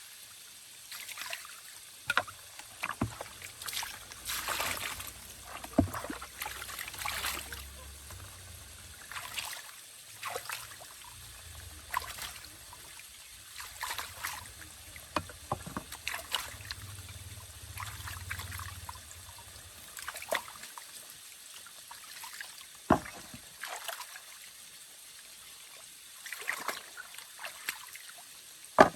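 Floodwater splashing and sloshing in irregular strokes, with trickling, typical of water being stirred by a paddle or by moving through it. A few sharp knocks stand out, the loudest near the end.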